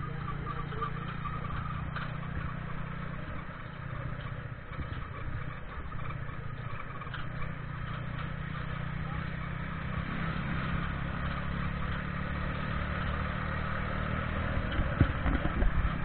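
Small motorcycle engine pulling a tuk-tuk carriage, running steadily while under way, with a few louder low thumps near the end.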